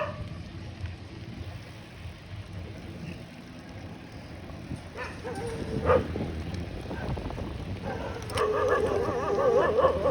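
Dogs barking, with a long wavering whine in the last two seconds, over a steady low rumble.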